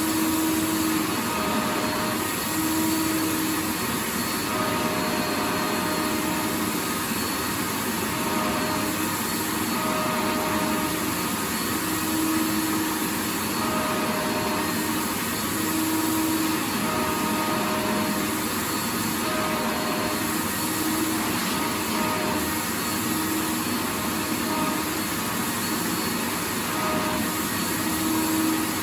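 Vacuum cleaner motor running continuously with a steady rushing hiss. A low pitched hum within it comes and goes every second or two.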